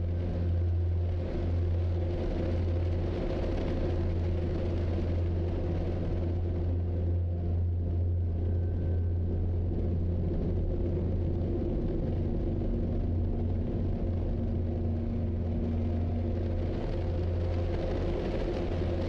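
Steady low engine drone with a constant hum and fainter steady tones above it, unbroken throughout.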